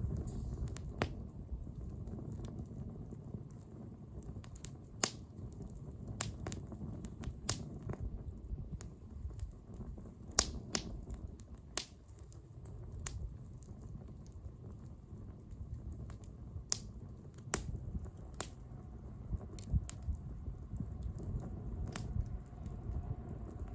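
Wood bonfire burning: irregular sharp crackles and pops from the burning wood over a low steady rumble of the flames.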